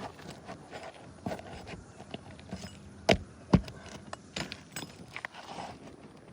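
Irregular taps, knocks and scraping from hand work on asphalt roof shingles, with two sharp knocks close together about three seconds in.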